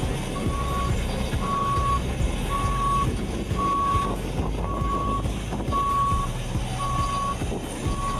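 Reversing alarm of a heavy construction vehicle at work on a road-paving job, beeping on one steady tone about once a second, over the rumble of a running engine.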